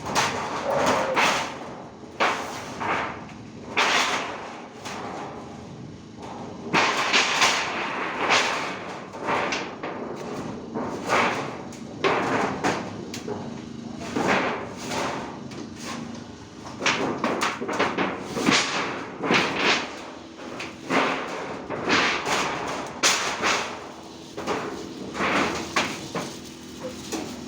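Many irregular thumps and clattering knocks, coming in uneven bursts throughout.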